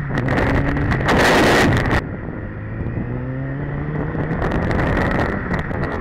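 Motorcycle engine accelerating, its revs climbing and then climbing again a couple of seconds later, with a burst of wind rushing over the microphone about a second in.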